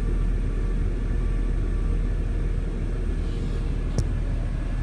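VW Passat 1.8T turbocharged four-cylinder engine idling with no throttle applied, a steady low rumble with one short click near the end. The owner describes the idle as rough and oscillating and suspects a vacuum leak.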